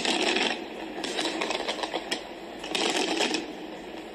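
Fireworks crackling and popping in a dense stream of sharp cracks, louder at the start and again around three seconds in, heard as played back through a screen's speaker.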